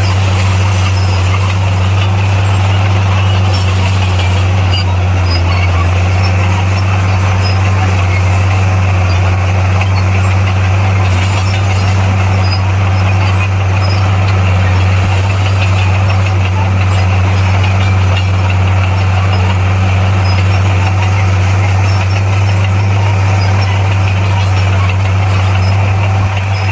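Bulldozer diesel engine running steadily at a constant speed, a low, even drone that does not change in pitch.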